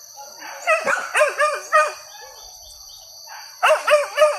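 Hunting dogs barking in two quick runs of short, high yelping barks, about three or four barks a second: the first run about a second in, the second near the end.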